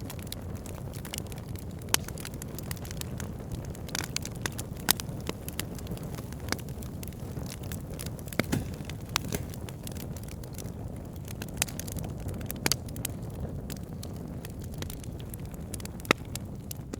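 Burning wood logs crackling: irregular sharp pops, a handful louder than the rest, over a steady low rumble of the flames.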